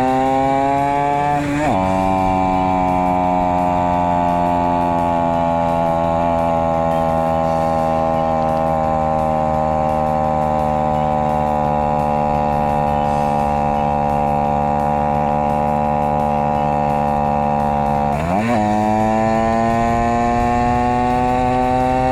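Honda Monkey's small single-cylinder four-stroke engine pulling uphill. Revs climb, then drop sharply at an upshift about a second and a half in. The engine holds a long steady note that slowly sags as it labours in the higher gear, then jumps up at a downshift near the end and climbs again.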